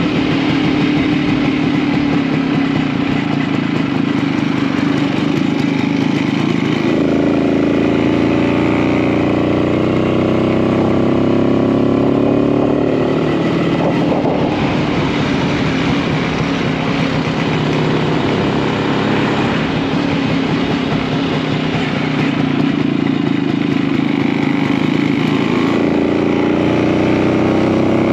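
A 1952 DKW RT 200H's single-cylinder two-stroke engine running under way. Its pitch climbs for several seconds, then falls back, more than once, as the bike accelerates and shifts gear.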